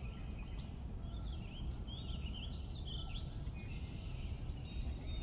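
Outdoor background ambience: a steady low rumble with birds chirping and twittering, busiest in the middle, and a run of quick falling chirps near the end.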